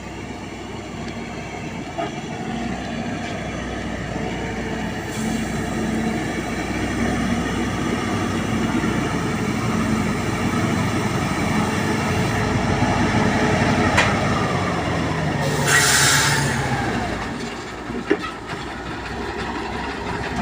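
Diesel engine of a lorry loaded with timber, running and getting steadily louder. About three-quarters of the way in comes a short burst of hiss, and the engine note falls away.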